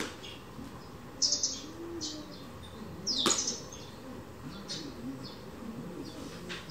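Small birds chirping in short, repeated high calls, with one sharper, louder call about three seconds in.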